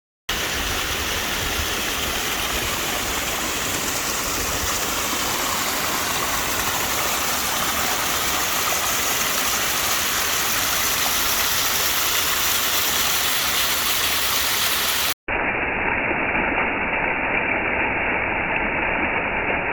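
Fast-flowing mountain creek rushing steadily over rocks. The sound breaks off for an instant about fifteen seconds in and resumes sounding duller.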